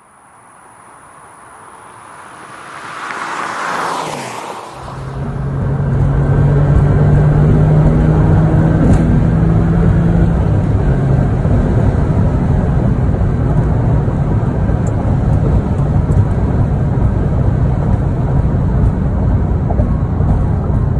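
A Porsche 996 Carrera's 3.4-litre flat-six approaches and passes by, swelling in loudness and dropping in pitch as it goes past. About five seconds in, the sound cuts to the car's steady engine drone and tyre and road noise, heard on board while cruising.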